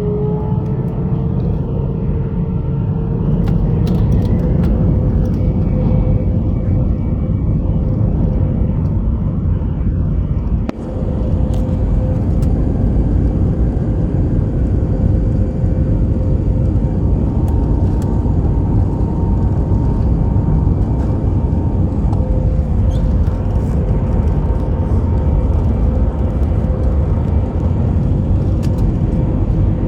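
Airbus A319-112's CFM56 turbofan engines running at high thrust during takeoff, a steady loud rumble. A fan whine rises slightly in pitch over the first few seconds and then holds steady.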